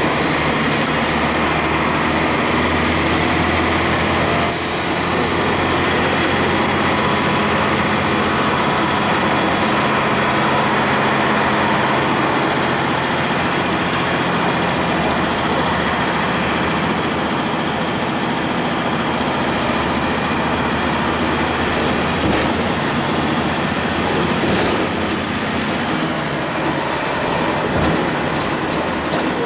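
A 2002 Blue Bird CS transit bus underway, its Cummins ISC diesel and Allison automatic transmission running steadily under road noise, with a thin high whine that slowly falls over the first several seconds. A brief hiss comes about four and a half seconds in, and there are a couple of short sharp knocks near the end.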